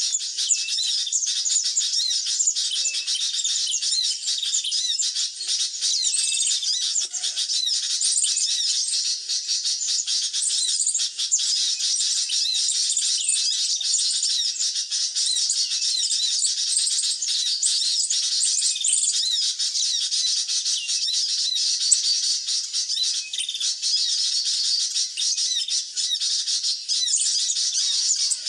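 Sunbird calls: dense, unbroken, high-pitched twittering and chirping, many short quick notes overlapping.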